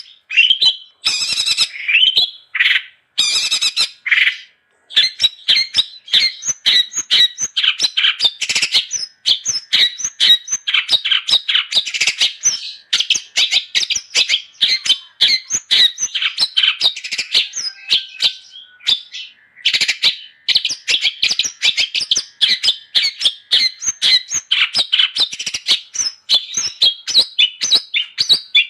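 Long-tailed shrike (cendet) singing nonstop: a fast, dense stream of high chattering, squeaky notes. It comes in short phrases with gaps for the first few seconds, then runs almost without a break.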